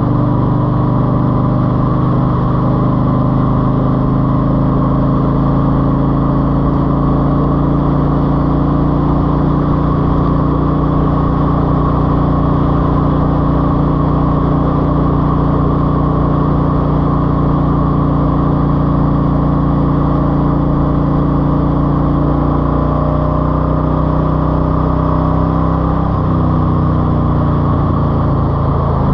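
Eluder GT car engine idling steadily through a baffled 2.5-inch exhaust, with a slight wavering in pitch about three-quarters of the way through.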